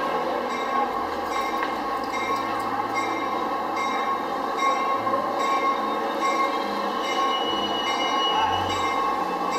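NJ Transit commuter train easing into a terminal track, running steadily, with a thin squeal of wheels rising in pitch for a second or so past the middle.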